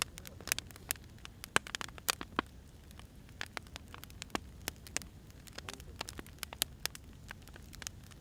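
Firewood burning, crackling with irregular sharp pops over a low, steady rumble of the flames.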